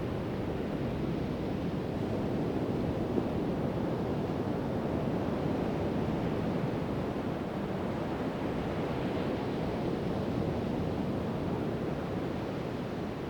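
Ocean surf washing onto a beach in a steady wash, swelling gently a couple of times, with some wind on the microphone.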